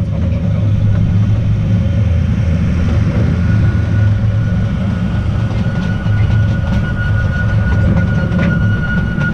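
Narrow-gauge Artouste tourist train running along its track, heard on board: a steady low rumble, with a thin high whine coming in about three seconds in and a few clicks near the end.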